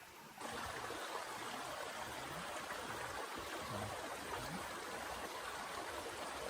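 Steady rushing of water, heavy rain or running water, that starts abruptly about half a second in.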